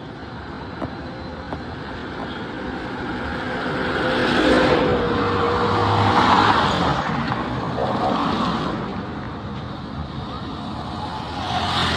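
Road traffic: a motor vehicle passes close, its engine and tyre noise swelling about four seconds in and fading after about eight seconds, over steady background traffic.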